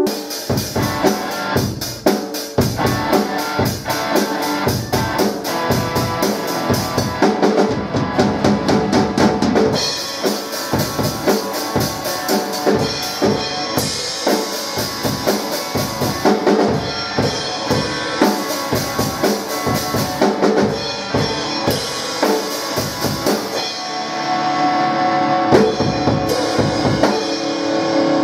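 Instrumental music break with a drum kit to the fore: bass drum, snare and rimshots keep a busy, steady beat under the band, with no singing.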